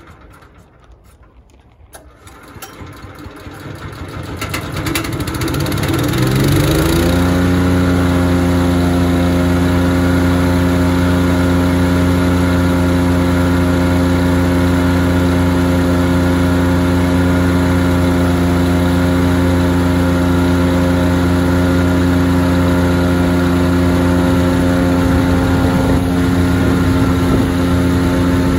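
Power King wood chipper's gasoline engine starting up, climbing in pitch and loudness over about five seconds, then running steadily at full speed.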